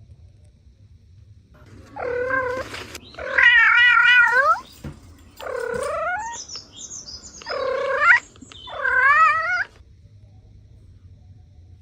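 A cat meowing five times in a row, long drawn-out meows, some with a wavering pitch.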